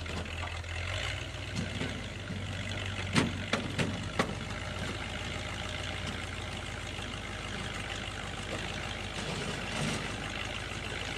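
Heavy vehicle engine running steadily, with several sharp clanks a little after three seconds in.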